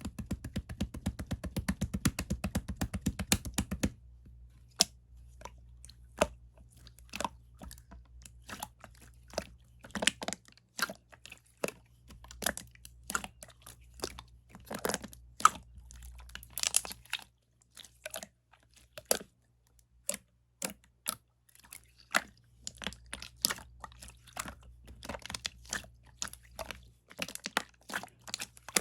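Clear slime being worked by hand, giving sticky clicking pops as it is pressed and pulled. A fast dense run of clicks at first gives way after about four seconds to scattered single pops and crackles.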